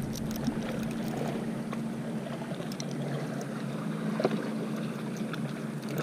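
Small clicks and rattles of a square-bill crankbait's hooks and line being handled while a bass is unhooked, over a steady low hum.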